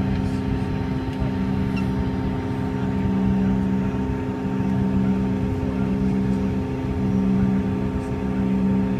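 Cabin noise inside a Bombardier CRJ-200 airliner: the steady hum of its rear-mounted turbofan engines, several steady tones over a rushing background, the strongest tone swelling and fading a little.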